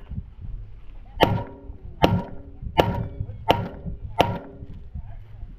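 Five gunshots fired in steady succession, about one every three-quarters of a second, each with a short ringing tail.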